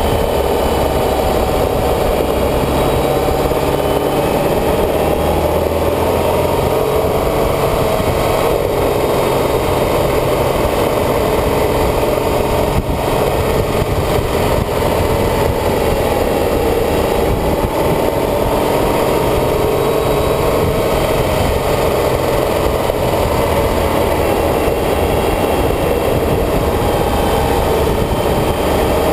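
A vehicle's engine running continuously under way, its pitch rising and falling slowly as the speed changes.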